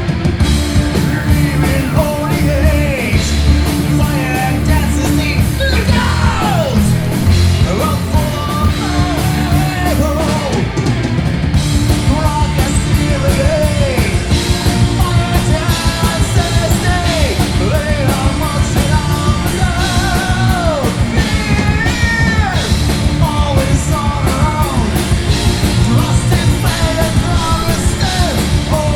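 Rock band playing loud punk-style rock, with a yelled, sung lead vocal over drums and bass. About eleven seconds in, the beat turns faster and choppier.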